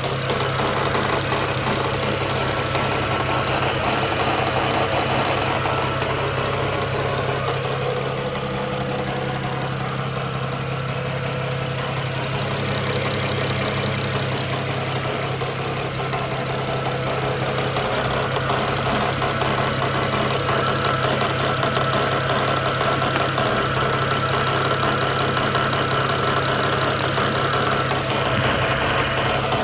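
BMW N54 twin-turbo inline-six engine idling steadily.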